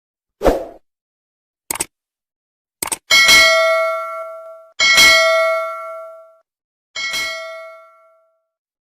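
A soft thump and a few short clicks, then a bell-like ding struck three times, each strike ringing out and fading over a second or more.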